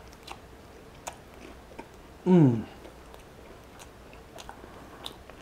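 Close-up mouth sounds of someone biting and chewing a crisp fried egg roll: scattered sharp crunches and wet chewing, with a short falling hum from the eater about two seconds in.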